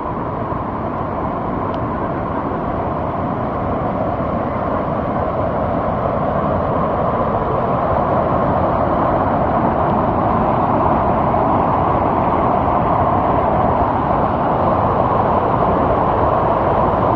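Steady rush of a large waterfall, Madhabkunda Falls, its water falling onto the pool below, growing gradually louder.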